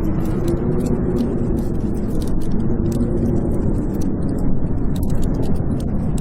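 Storm wind howling in a steady low rush, with a wood fire crackling over it in many small sharp pops.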